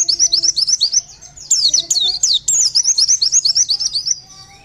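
White-eye (pleci) song: fast, twittering runs of high chirps sliding up and down, in three loud phrases with a short break after about a second and a lull near the end. It is the 'Bustomi' style of pleci song used as a lure to draw wild white-eyes into answering.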